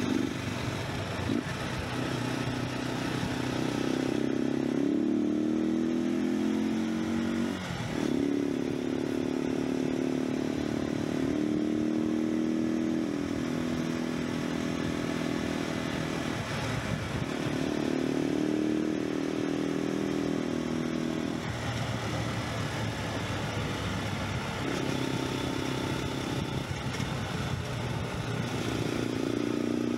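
Cagiva River 500's single-cylinder four-stroke engine running on the move, its note climbing as it accelerates and dropping away briefly several times as the throttle closes, over wind rush on the microphone.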